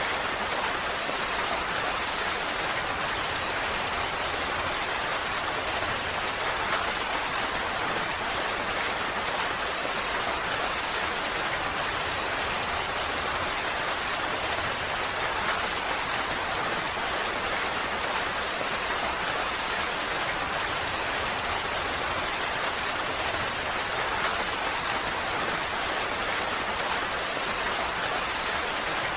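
Steady rain falling, an even dense hiss with a few separate drops ticking through it.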